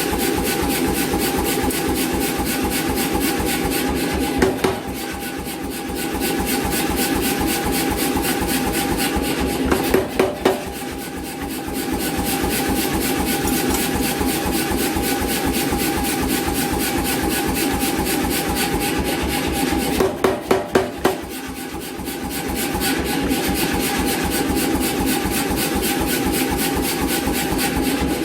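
88 lb C41 self-contained pneumatic power hammer running with a fast, steady beat and a steady tone underneath. About 4, 10 and 20 seconds in come a few sharp, heavier blows, and each time the sound briefly drops quieter.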